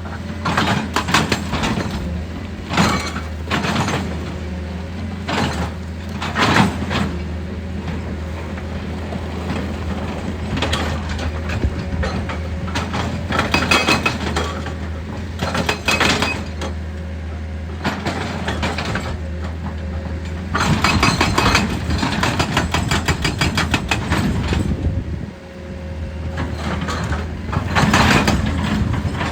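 Heavy machine's engine running steadily while rock is broken, cracking, scraping and clattering in bursts every few seconds, with a longer stretch of crunching past the middle.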